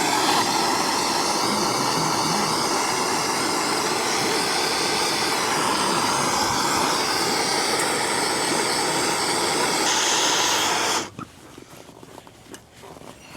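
Torch flame blasting steadily, heating a frozen aluminium trailer-hitch mount to thaw it loose; it cuts off suddenly about eleven seconds in.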